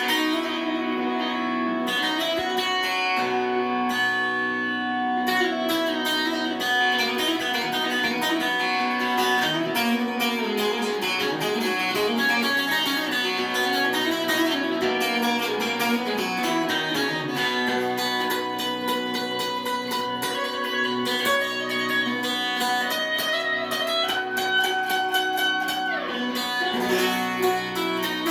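Guitar music: plucked and strummed strings with many quick notes over held tones.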